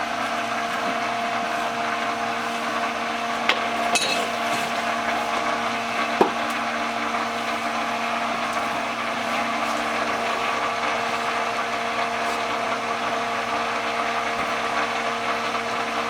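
Small pump running steadily with an even hum, circulating vinegar through a Rinnai tankless water heater during a descaling flush. A few faint clicks sound about four and six seconds in.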